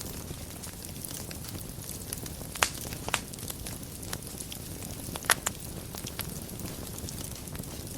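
Wood fire burning in a fireplace, a steady low rumble with sharp irregular crackles and pops, three louder pops standing out.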